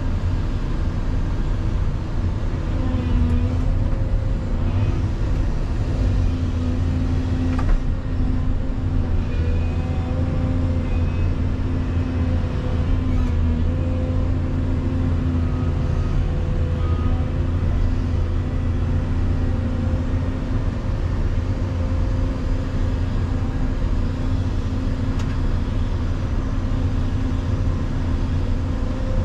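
Volvo EC220EL excavator's diesel engine running steadily, its pitch shifting slightly as the machine works, with one sharp knock about eight seconds in.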